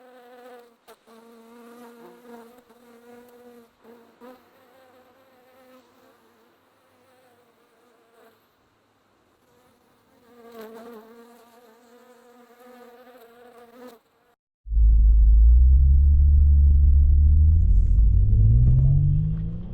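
A buzzing whine with a slightly wavering pitch from a quadcopter drone's propellers. After a sudden cut about three-quarters of the way through, a much louder vehicle engine rumble comes in, its pitch rising as it revs.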